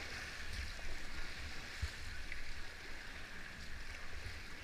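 Rushing whitewater of river rapids around a paddle raft, a steady hiss of moving water, as the crew paddles forward. Uneven low rumbling runs underneath, like wind buffeting the microphone.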